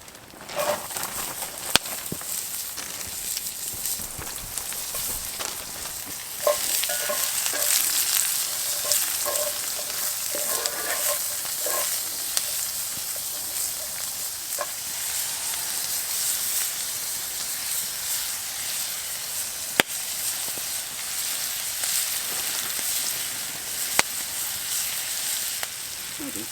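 Food frying in oil in a pan over a campfire: a steady sizzle that grows louder about six seconds in, with a few sharp pops.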